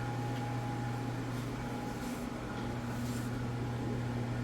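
Steady low mechanical hum with faint steady tones riding above it, and a few soft faint rustles.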